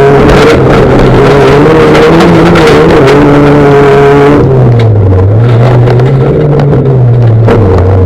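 Fiat Bravo V1600-class rallycross car engine running hard at high revs. About four seconds in, the note drops and the hiss falls away, then the revs rise and fall again, as when lifting off and picking up the throttle through a corner.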